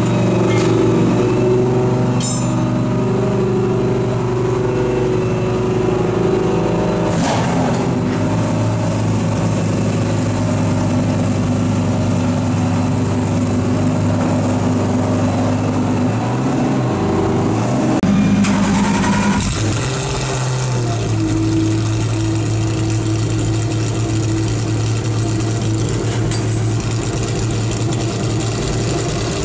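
GT3 race car engine running at idle, a steady low drone that shifts pitch a few times, with a brief rise and fall of revs a little past the middle.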